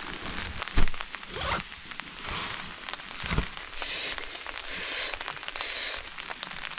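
Bedding rustling as someone settles down to sleep: a dull thump about a second in, another at about three and a half seconds, then three short fabric swishes.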